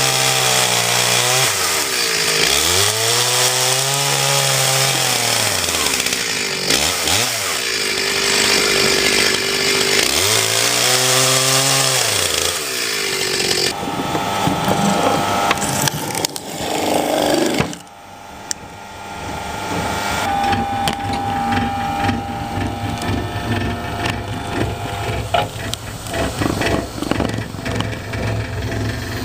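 Two-stroke chainsaw revving up and down in long sweeps as it cuts firewood. About halfway through the sound changes abruptly to a steadier machine hum with scattered knocks.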